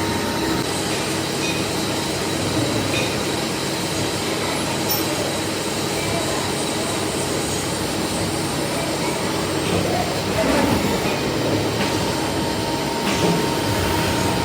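Steady workshop machinery noise with a faint hum running through it.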